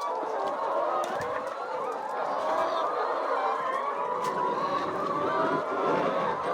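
A flock of chickens clucking and chattering together, many birds overlapping in a continuous babble.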